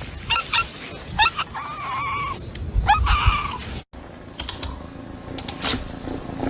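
A cat making several short chirping meows and one longer held meow, then, after an abrupt cut, a few scattered light clicks and knocks.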